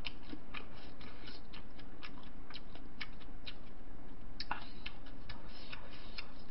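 Close-miked chewing of a mouthful of bibimbap (mixed rice and vegetables): irregular small wet clicks and smacks, about three a second.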